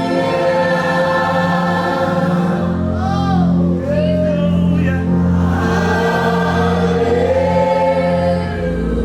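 Worship music: a choir singing sustained notes over held instrumental chords, with a voice gliding up and down in the middle.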